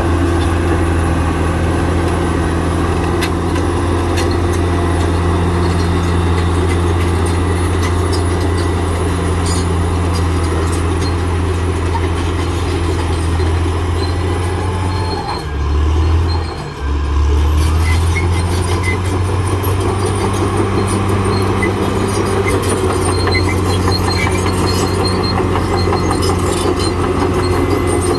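Caterpillar D6R XL bulldozer at work: its diesel engine runs steadily under load over the clanking of its steel tracks. About halfway through, the engine note dips briefly, then picks up again.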